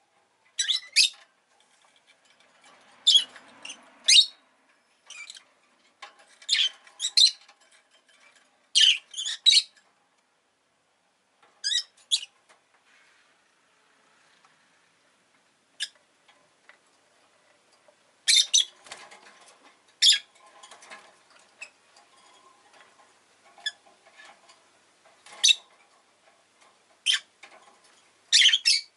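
Rosy-faced lovebird giving short, shrill chirps in clusters of two or three, with pauses of a second or more between them and a longer lull in the middle.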